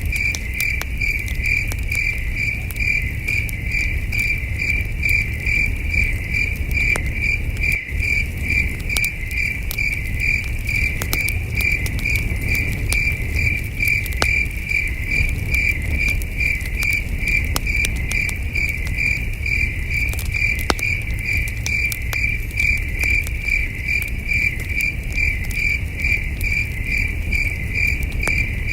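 Crickets chirping in a steady, even pulse, over the crackle and low rumble of a campfire with scattered sharp pops.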